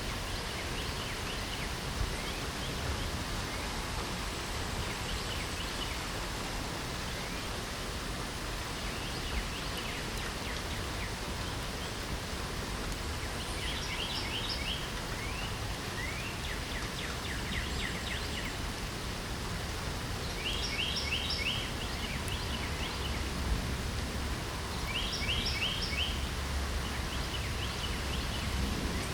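Steady hiss of light spring rain, with songbirds singing short phrases of quick notes over it, most clearly three times in the second half.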